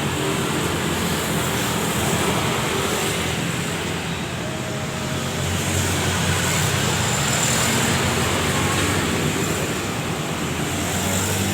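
Steady road traffic noise: the engines and tyres of passing vehicles make a continuous hum and rush that swells and fades a little.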